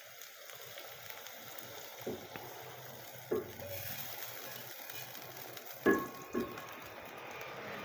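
Hot fried okra in ghee scraped with a silicone spatula out of a nonstick frying pan into a pot of curry: a low sizzle throughout, with a few knocks of the pan and spatula against the pot, the loudest about six seconds in.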